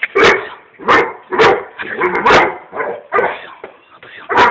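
A dog barking repeatedly, about seven loud, sharp barks at uneven intervals.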